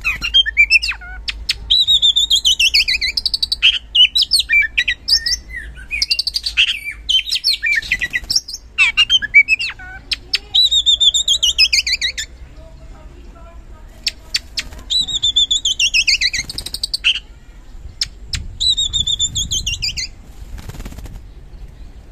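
Oriental magpie-robin (kacer) singing loudly: a varied run of whistles and chirps, broken by a long, falling trilled phrase that comes back about four times, with short pauses between bouts.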